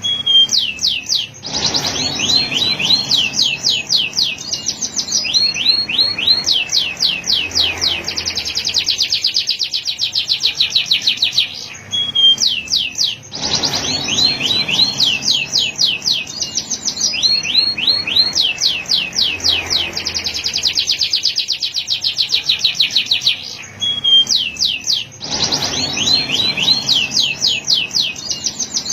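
Male canary singing a long song of fast, high trills, each a rapid run of repeated notes, switching from one trill to the next with brief pauses. The same sequence of trills repeats about every twelve seconds.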